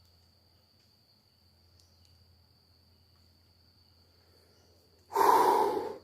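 Cricket trilling as a steady, faint high note over a low hum. About five seconds in, a sudden loud, noisy burst close to the microphone lasts under a second and cuts off.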